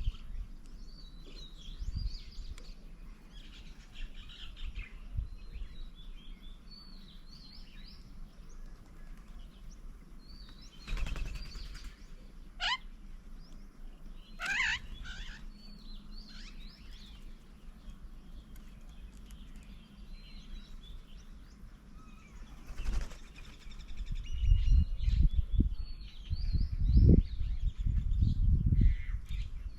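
Several birds chirping and calling around a garden bird table, many short chirps, with two louder sweeping calls about halfway through. Low rumbling comes in over the last several seconds.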